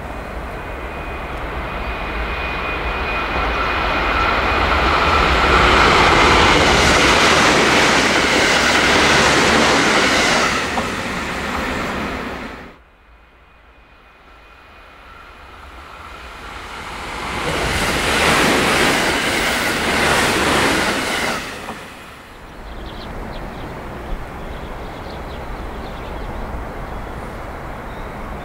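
JR West 281 series 'Haruka' limited express electric train passing through a station at speed, its running noise swelling as it approaches and staying loud for several seconds. The sound cuts off suddenly about halfway through, then a second train pass builds and dies away, leaving steady lower noise.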